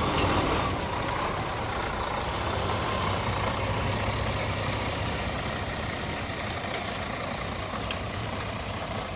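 Scania P310 truck's five-cylinder diesel engine running steadily.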